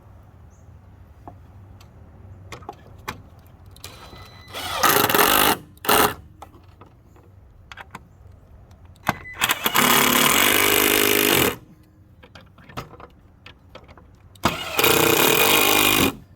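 Power screwdriver running on screws in a wooden gate, in three bursts of one to two seconds each with a short blip in between, starting and stopping abruptly; light tool clicks and taps come between the bursts.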